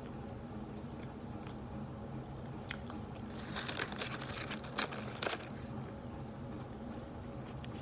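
Someone chewing a Popeyes fried chicken sandwich close to the microphone, with a burst of crunchy bites and crackles in the middle. A steady low hum runs underneath.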